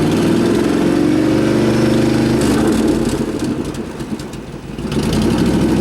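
A 1997 Chevrolet Suburban's replacement 5.7-litre V8 running without its exhaust pipe fitted, its pitch climbing over the first few seconds, easing off briefly about four seconds in, then picking up again.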